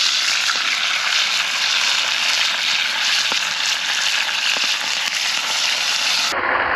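Rump steak and potatoes frying in hot fat in a pan over a campfire: a steady, loud sizzle with a few pops. Near the end the sizzle turns abruptly duller.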